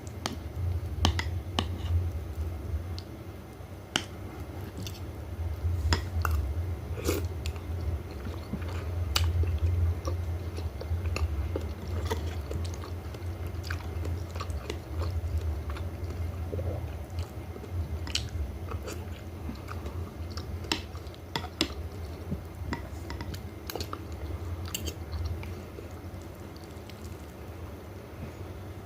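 Close-up chewing and biting of bakso meatball soup, with wet mouth sounds and many scattered sharp clicks.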